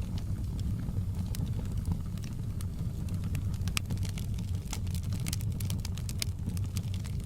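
Wood fire crackling: sharp pops and snaps over a steady low rumble, the pops coming thicker in the second half.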